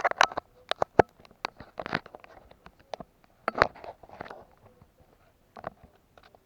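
Irregular sharp clicks and knocks, about a dozen in quick succession, the loudest about a second in.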